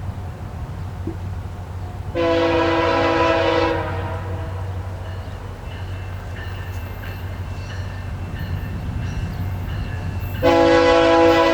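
Diesel locomotive air horn on a VIA Rail F40PH-2 sounding two blasts: one of about a second and a half some two seconds in, then a longer one starting near the end. Both play over the steady low rumble of the approaching train.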